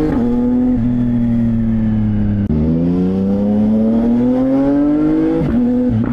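CFMOTO 675NK's 675 cc three-cylinder engine running through a titanium full-system exhaust, accelerating through the gears. The pitch climbs and then drops at each gear change, with a brief cut in sound at the shift about two and a half seconds in and more shifts near the end.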